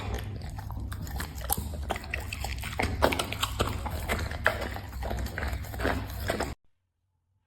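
A dog eating: quick, irregular wet chewing and smacking sounds over a low hum, cutting off abruptly near the end.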